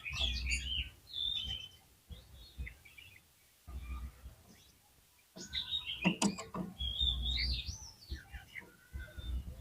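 Oriental magpie-robin (kacer) singing in short, varied, gliding whistled phrases with brief pauses between them, busiest during the first second and again from about the middle on. Low rumbling bumps sit under the song.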